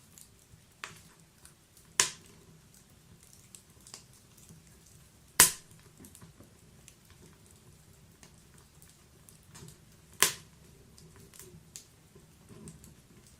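Wood logs burning in an open fireplace, crackling: three sharp, loud pops about two, five and ten seconds in, with fainter ticks and snaps between over a quiet background of the burning.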